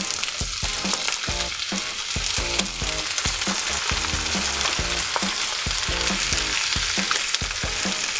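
Whole head-on shrimp sizzling steadily in hot oil in a nonstick frying pan over high heat as they are tipped in from a bowl, with occasional light knocks of the bowl and utensils against the pan.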